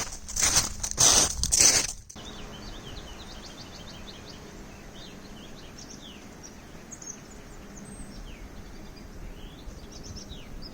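Footsteps crunching through snow, several heavy steps in about two seconds. Then the sound cuts abruptly to a steady outdoor hiss with many short high chirps of small birds.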